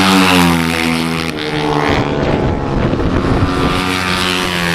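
Several single-cylinder flat track race motorcycles running hard together on a dirt oval. One engine drops in pitch in the first second and another climbs in pitch about a second and a half in, as riders come off and back on the throttle.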